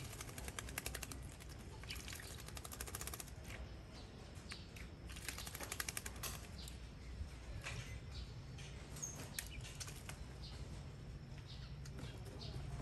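A baby bird flapping its wings while being bathed, in several short bouts of rapid fluttering, with scattered single ticks between them.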